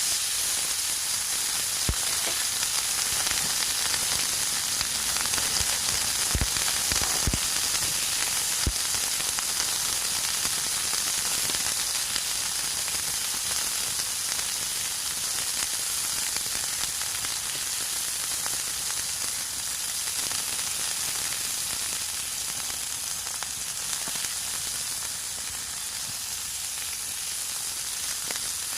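Steak sizzling steadily in a homemade stainless-steel frying pan over a wood fire, with a few sharp pops in the first nine seconds or so.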